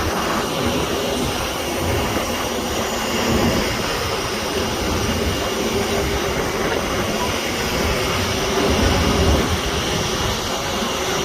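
Steady rumble and hum of jet aircraft running on an airport apron.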